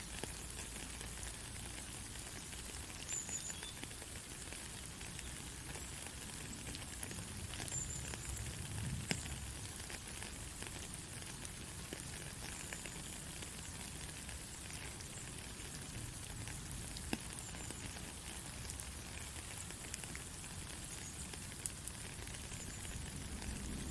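Steady heavy rain, a dense hiss of countless drop ticks, with a few louder single drops. A low rumble swells briefly about nine seconds in.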